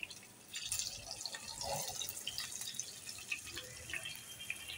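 Green chilli pieces and whole cumin seeds frying lightly in hot ghee for a tadka: a quiet sizzle with scattered small pops and crackles.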